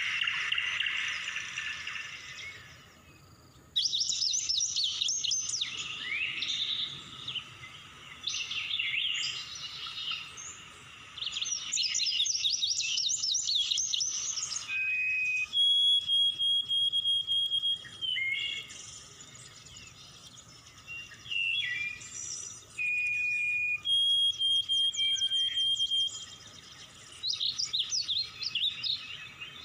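Wild birds calling: bursts of rapid high chirping and several long, steady whistled notes. A continuous animal chorus fades out over the first few seconds.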